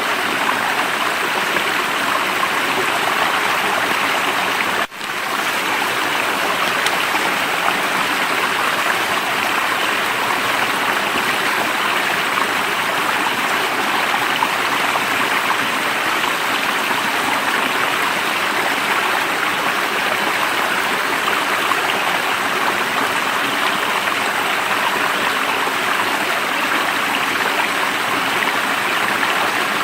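Steady rush of flowing stream water, with a brief dip in level about five seconds in.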